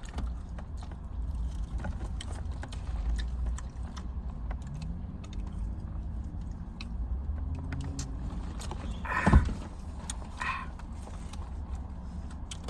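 Eating and food handling at close range: scattered small clicks and rustles over a steady low rumble, with a brief louder sound about nine seconds in.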